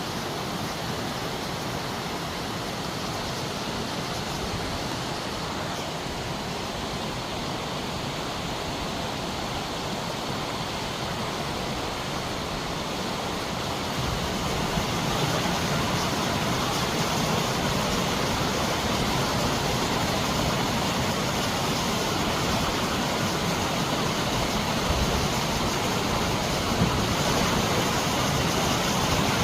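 Waterfall: a steady rush of falling water that grows louder about halfway through.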